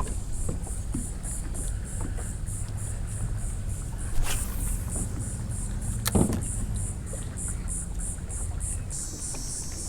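Low steady rumble with insects chirping high in even pulses, about three a second, and two sharp clicks about four and six seconds in.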